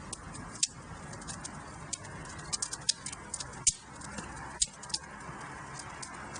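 Wood fire crackling in a fireplace: irregular sharp snaps and pops over a steady hiss of the flames. The strongest snaps come about half a second in, and twice more between three and a half and five seconds in.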